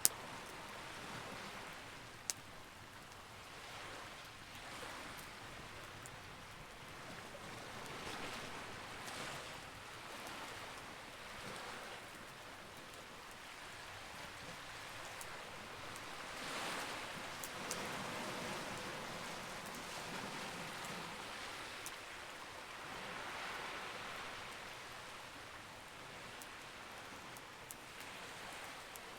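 Campfire crackling, with occasional sharp pops over a wash of hissing noise that swells and fades every few seconds.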